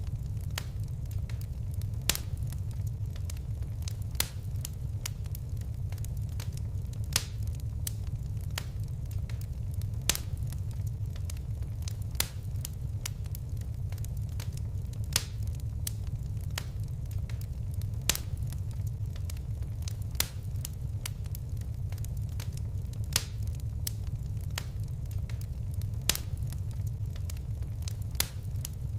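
Fireplace fire crackling, with sharp single pops every second or two over a steady low rumble.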